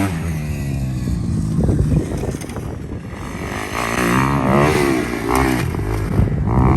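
Motocross dirt bike engines revving, the pitch rising and falling several times as the throttle is opened and closed, over a steady low engine hum.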